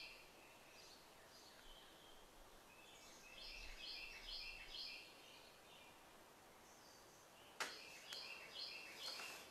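Faint bird song: two runs of quick repeated chirping notes, with a sharp click about seven and a half seconds in.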